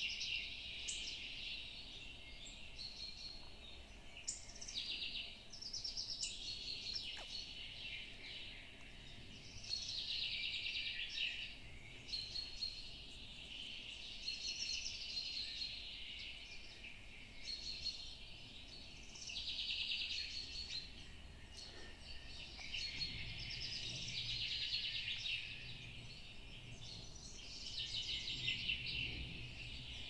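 Woodland birdsong: several birds singing high, trilling phrases that come and go every second or two, over a faint low rumble.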